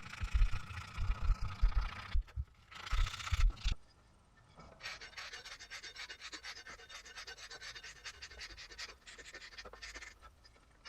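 Hand scraping and rubbing with a tool against a workpiece, with some knocks and handling for the first few seconds, then several seconds of fast, even scratching strokes.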